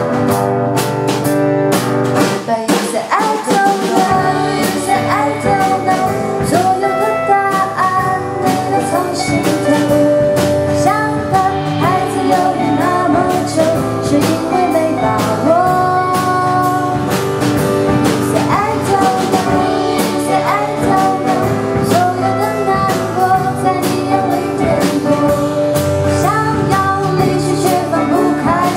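A band playing an instrumental passage of a pop-rock song: guitars over a drum kit, with a lead melody line that slides up and down in pitch.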